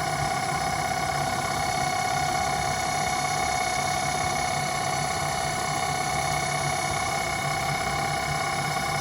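Home-built CNC lathe running: a steady machine whine made of several high, unchanging tones over a low hum.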